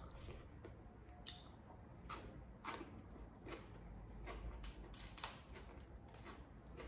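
Faint eating sounds: a person chewing, with irregular short crisp clicks and snaps as fresh leafy vegetables are broken and eaten.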